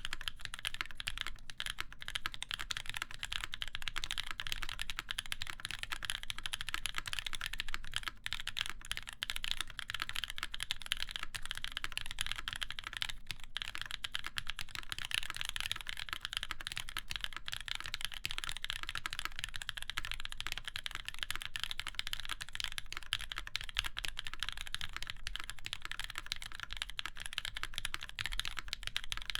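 Continuous fast typing on a Keycult No. 2 mechanical keyboard with lubed, broken-in NK Cream linear switches in a full aluminium plate and GMK keycaps: a dense run of keystroke clacks with brief pauses about eight and thirteen seconds in.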